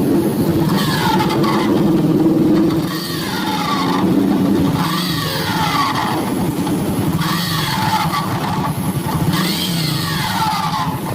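Honda Revo single-cylinder four-stroke motorcycle engine running, with an abnormal whine that rises and falls about every two seconds over its steady running. It is strange, not like a normal motorcycle's sound.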